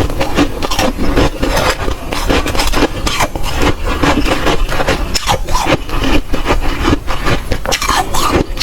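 Close-miked biting and chewing of soft, dry freezer frost ice: a dense, continuous run of crisp crunches.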